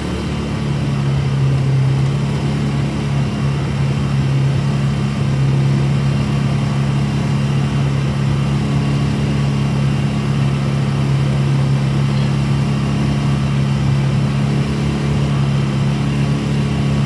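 Vehicle engine heard from inside the cab while driving slowly on a dirt road, held at heavy throttle and running steadily as a low drone that holds one pitch.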